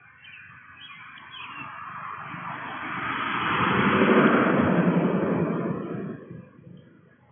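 A vehicle passing by: a noise that swells over about four seconds, peaks and then fades away.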